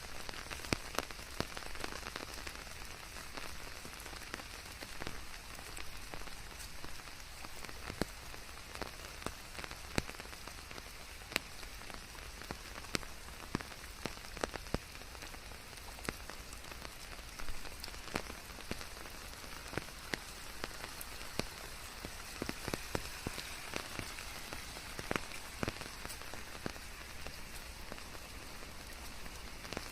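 Steady rain falling, a constant hiss with many separate drops pattering sharply on top.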